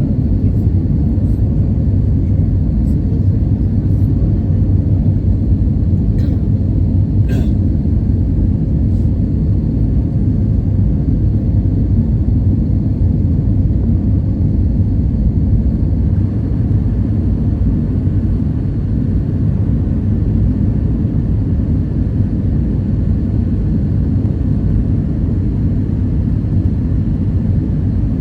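Steady low rumble of engine and airflow noise inside an Airbus A320-214 passenger cabin, with a faint high whine. A few light clicks come in the first several seconds.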